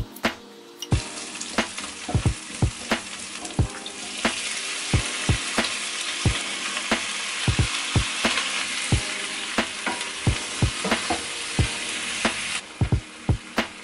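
Green onion and squid sizzling in hot oil in a nonstick wok, stirred with a spatula. The sizzle starts about a second in, grows louder about four seconds in as the squid goes in, and cuts off suddenly near the end. Background music with a steady beat plays underneath.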